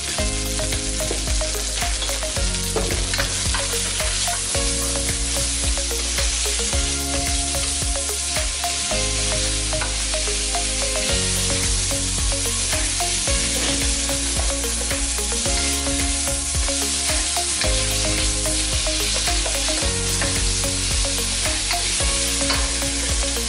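Sliced bell peppers sizzling in hot oil in a steel wok, with a spatula stirring and scraping against the pan now and then.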